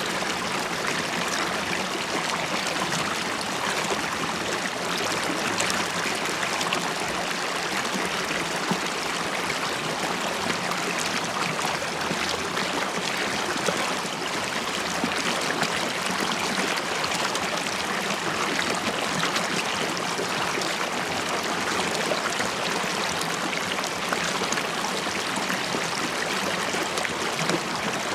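River water flowing and bubbling over stones, a steady rush with fine gurgles and splashes throughout.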